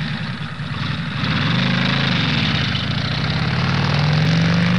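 A vehicle engine running steadily with a hiss over a low hum, its pitch rising slightly about a second and a half in and again near the end.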